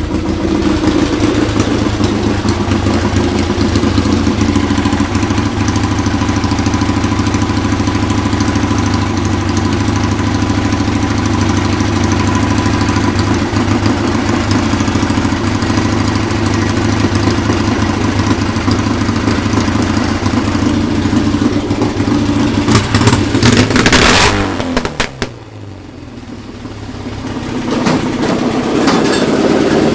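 1976 Triumph T140 Bonneville's 750 cc parallel-twin engine running steadily at idle. About three-quarters of the way through it is revved up hard. The revs then fall away and slowly climb back.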